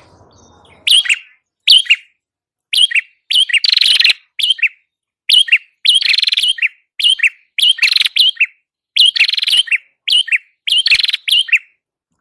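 Recorded calls of a prenjak kepala merah, a small Indonesian prinia-type bird: loud, sharp chirps repeated about once a second, some running into short buzzy trills, stopping shortly before the end.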